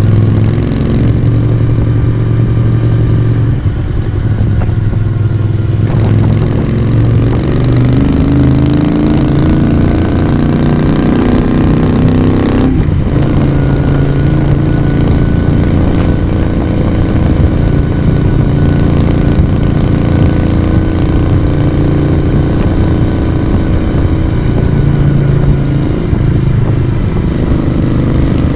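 1982 Moto Guzzi V35's air-cooled transverse V-twin engine and exhaust running under way. Its pitch climbs steadily for several seconds as it accelerates, drops abruptly about halfway through, then holds fairly steady.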